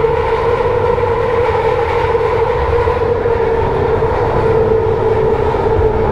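Kelana Jaya line LRT train running on its elevated track, heard from inside the car: a steady rumble with a constant hum throughout.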